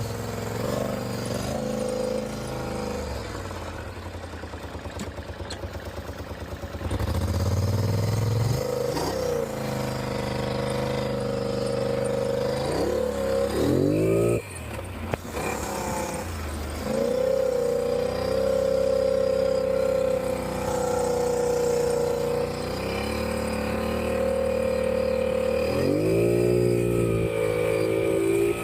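Polaris Sportsman 850 ATV's twin-cylinder engine under way, revving up and easing off several times with steady cruising between. It is running on newly fitted spark plugs and plug wires, the fix for its misfire, and pulls with a lot more power.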